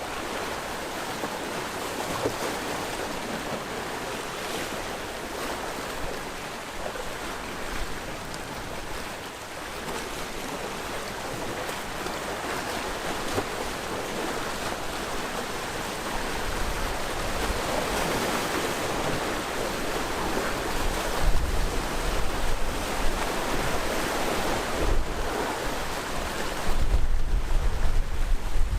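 Sea waves washing against the shore in a steady wash of surf. From about halfway, wind buffets the microphone with a low rumble that grows stronger near the end.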